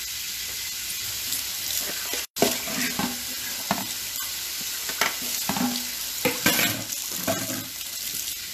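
Shrimp frying in hot seasoned oil in a pan: a steady sizzle with scattered light clicks, and a brief dropout about two seconds in.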